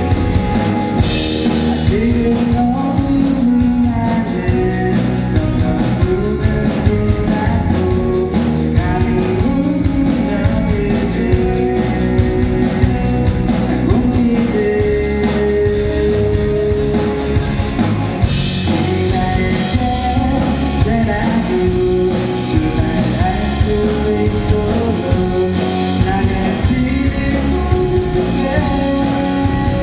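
A live rock band plays a song with a lead vocal over electric guitar, bass and drums, with loud cymbal crashes about a second in and again just past the middle.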